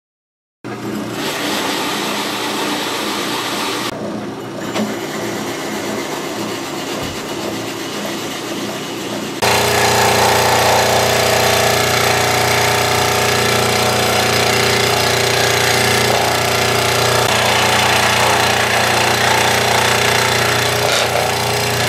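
An electric power tool's motor running steadily under use, stepping up suddenly to a louder, steadier run about nine and a half seconds in.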